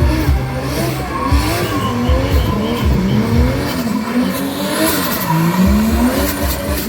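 A car engine revving up and down over and over, its pitch rising and falling every second or so, with tyres squealing as the car slides in a drift or stunt run.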